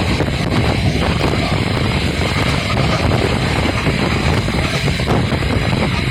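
Indian Railways Intercity Express passenger train running along the track, heard from on board as a loud, steady rumble of wheels on rail with a faint steady whine above it.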